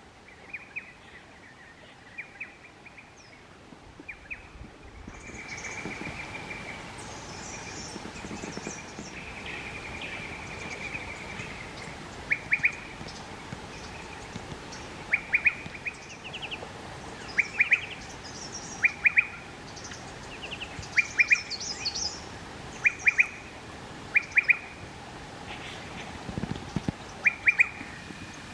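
Wild birds calling: one bird repeats a short, sharp call about every second and a half, with higher twittering from others, over a steady background rush that comes up about five seconds in.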